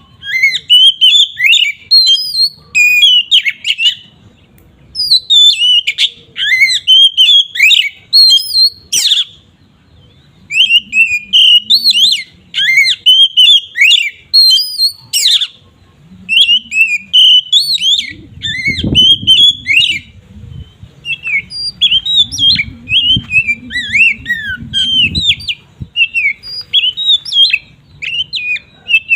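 Oriental magpie-robin (kacer) singing loud, open 'ngeplong' song: bursts of rapid, varied whistled and chattering notes a few seconds long, with short pauses between them. This is the full song that provokes other magpie-robins. A faint low rumble sits under the song in the second half.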